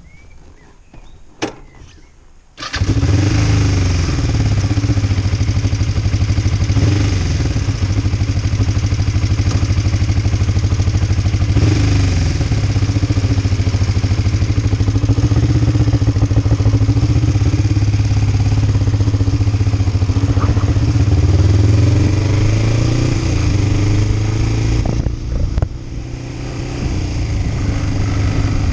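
A couple of clicks, then the Kawasaki Ninja 500's parallel-twin engine starts abruptly about three seconds in and idles steadily. Near the end the engine note drops and then rises again.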